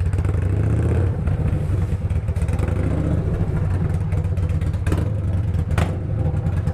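Yamaha Bolt's air-cooled V-twin running with no muffler, its open exhaust idling at a steady, even beat. Two sharp clicks come near the end.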